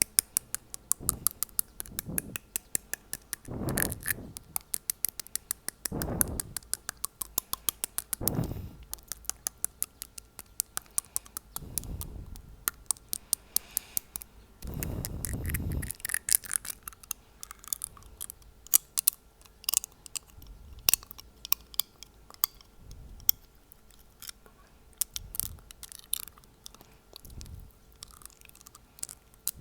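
Close-miked teeth tapping: trains of sharp clicks, several a second, broken by low breathy gusts of blowing into the microphone (the wind noises), the longest gust about fifteen seconds in. The tapping grows sparser in the last third.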